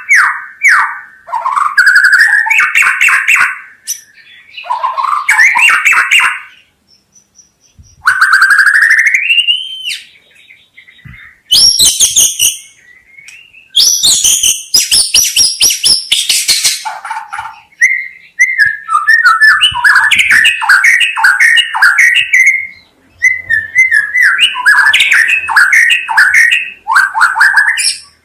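White-rumped shama (murai batu) singing a loud, varied song. Phrases of clear whistles, a rising glide, rapid trills and harsh chatter come one after another, broken by short pauses.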